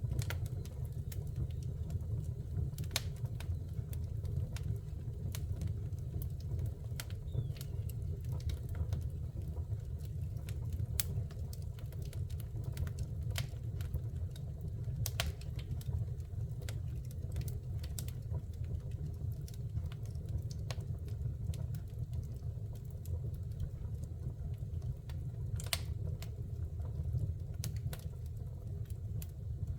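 Fire burning in a fireplace: a steady low rumble of the flames with scattered sharp crackles and pops at irregular moments.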